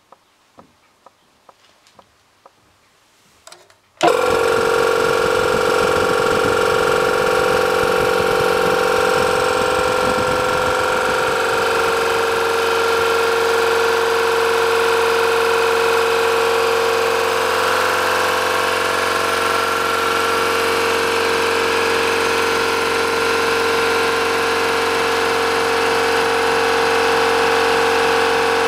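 Shamal piston air compressor starting abruptly about four seconds in and then running steadily and loudly with a strong humming tone, after a few seconds of faint ticks about two a second.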